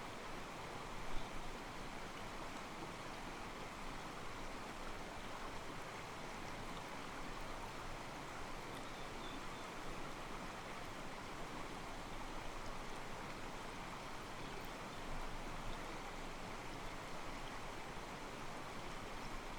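Shallow mountain stream flowing over rocks: a steady, even wash of water sloshing against the stones, with a slightly louder splash about a second in.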